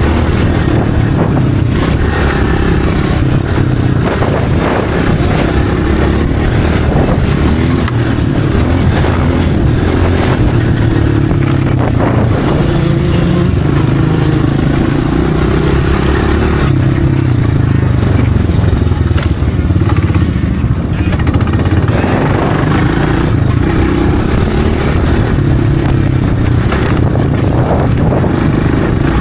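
Dirt bike engine running loudly, its pitch rising and falling as the throttle is opened and closed.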